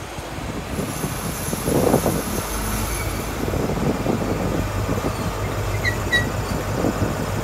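Class 43 High Speed Train power car and coaches running into the platform and braking to a stop, with a thin high brake squeal over the first few seconds and the wheels rumbling over the rails. The power car's diesel engine hums steadily as it comes to rest alongside.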